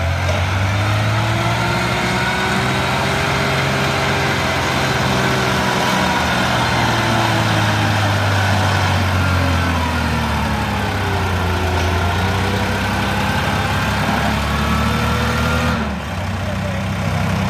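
A diesel tractor engine working under load in low gear, its speed slowly rising and falling. The engine note drops abruptly near the end.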